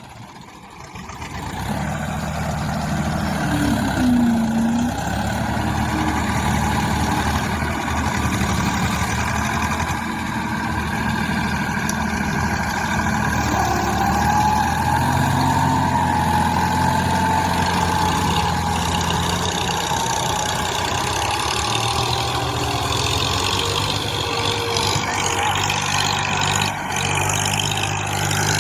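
Diesel tractor engine running steadily under load, swelling in about a second and a half in. A wavering higher whine rides over it for several seconds in the middle.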